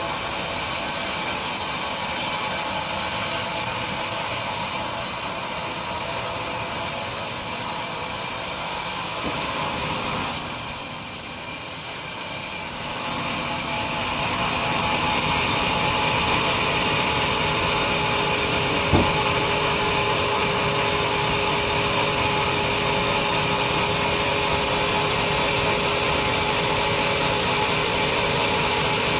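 Large sawmill bandsaw sawing through a big log with a steady, rasping sawing noise. The sound dips and shifts for a few seconds near the middle, and there is a single knock later on.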